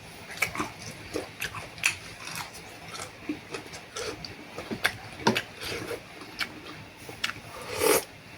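Close-miked eating of boat noodles: irregular wet chewing and lip smacks, with a short slurp near the end.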